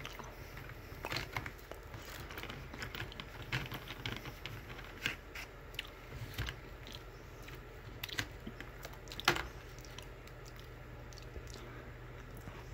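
Close chewing of Junior Mints Peppermint Crunch, chocolate-covered mint candies with a crunchy coating, heard as irregular crunchy clicks, with one sharper crunch about nine seconds in.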